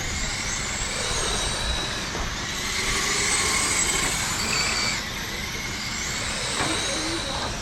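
Several radio-controlled race cars lapping a dirt oval, their electric motors whining high and rising and falling in pitch as they speed up and back off through the turns. Wind rumbles on the microphone underneath.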